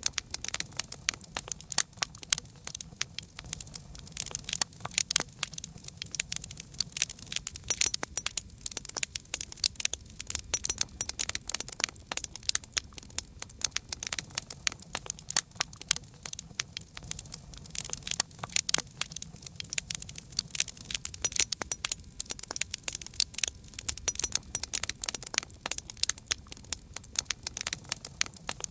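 Wood fire crackling: a dense, irregular run of sharp pops and snaps over a low, steady rumble of flame.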